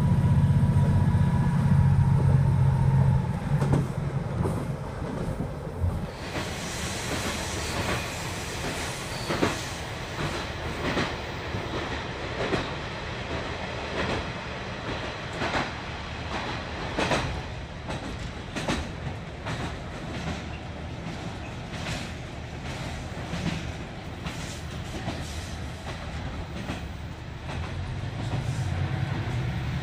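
A moving train heard from on board: a heavy low rumble at first, then from about six seconds in, repeated sharp clacks of the wheels over the rail joints, roughly one a second, over running noise. The low rumble swells again near the end.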